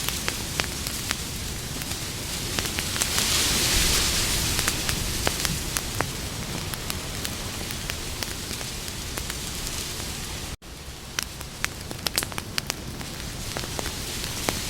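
Wood campfire crackling, with sharp pops scattered over a steady hiss. The hiss swells briefly about three to four seconds in, and the sound cuts out for an instant about ten and a half seconds in, followed by a cluster of pops.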